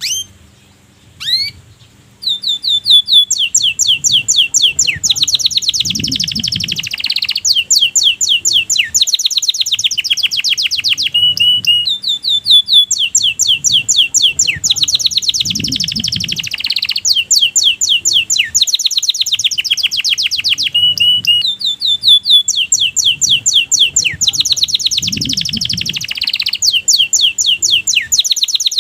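Domestic canary singing: fast trills of rising chirps and rolls broken by short steady whistled notes, one song phrase after another, starting about two seconds in. The same song sequence comes round again about every nine seconds.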